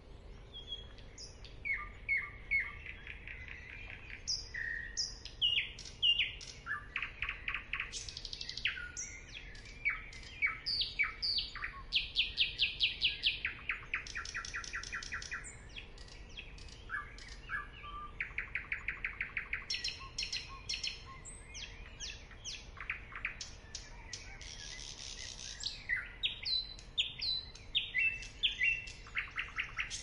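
Birds singing and chirping in varied phrases: short high chirps and fast runs of rapidly repeated notes, one after another. A faint steady hum lies underneath.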